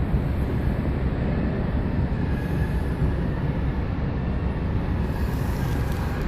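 Ferry's engines running, a steady low rumble with no horn sounding.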